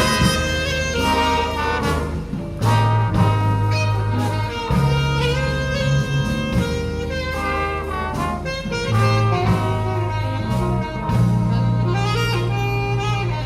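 Live big-band jazz: saxophones and brass playing a melody over a walking bass and drums with a steady beat.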